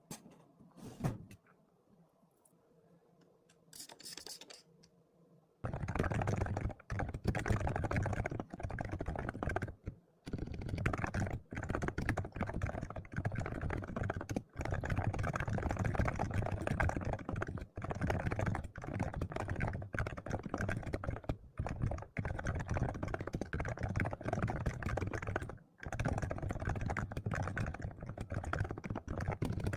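Typing on a computer keyboard. After about five seconds of near quiet, a fast, steady run of keystrokes begins and continues with only a couple of short pauses.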